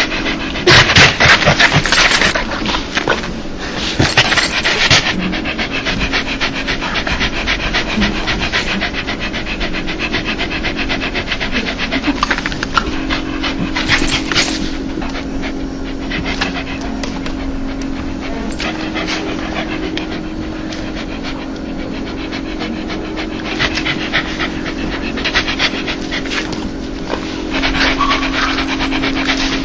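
A dog panting fast and continuously, the breathy 'heh-heh-heh' a happy, excited dog makes, louder in stretches near the start and end. A steady low hum runs underneath from about halfway through.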